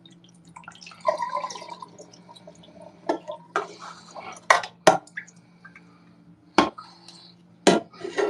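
Dishes being washed by hand in a sink: dripping water, a second or so of scraping, then about six sharp clinks of plates and glassware knocking together.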